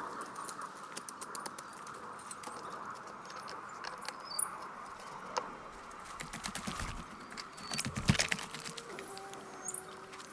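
Irregular pattering clicks, like drops or light taps, with a denser run of knocks and low thuds about eight seconds in. Small birds chirp briefly now and then.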